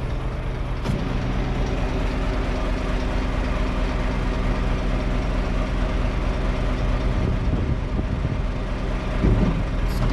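Diesel engine of a car-transporter truck idling steadily while cars are loaded, with a single click about a second in.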